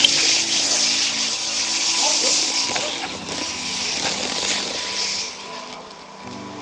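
Rolling noise of an H0 model freight train, heard from a camera riding on the train: a loud, steady hiss with a few sharp clicks and a thin steady whine. It fades about five seconds in.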